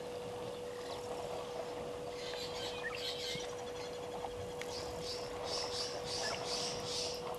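Birds calling in a run of short, high, scratchy notes that start about two seconds in and come about twice a second in the second half, over a steady low hum and faint outdoor background noise.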